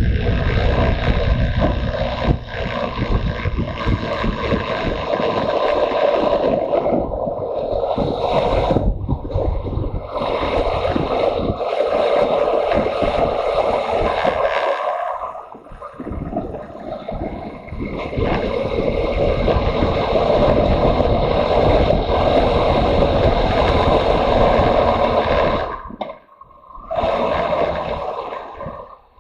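Motorcycle on the move: engine drone mixed with wind rushing over the camera microphone. It eases off briefly about halfway through and drops sharply for a moment near the end.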